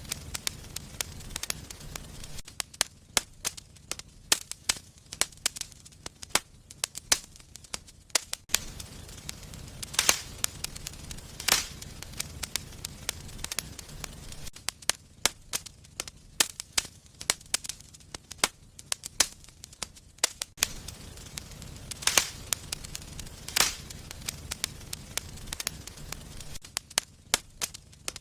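Wood fire crackling in a fireplace: a constant run of small irregular snaps with a handful of louder sharp pops, over a low rumble.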